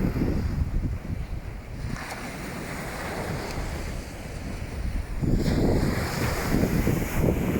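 Strong wind buffeting the microphone in gusts, heaviest at the start and again from about five seconds in, over a steady hiss of waves washing on the beach.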